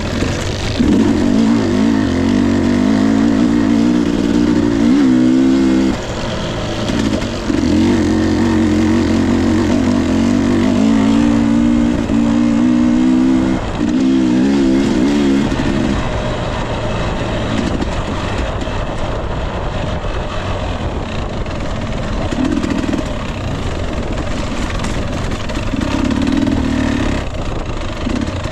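2021 Husqvarna TE 250i two-stroke dirt bike engine revving on and off under throttle on the trail, with long loud pulls for the first half and quieter running with short bursts of throttle after about sixteen seconds.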